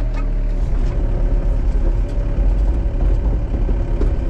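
Excavator's diesel engine running steadily under heavy load as the machine strains to tear a tree and its root ball out, with a few short knocks and creaks over the engine note.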